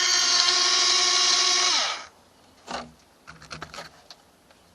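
Small electric drive motors and plastic gearbox of a 1/18-scale Huina RC bulldozer running with a high, steady whine, winding down and stopping about two seconds in. A few light clicks follow.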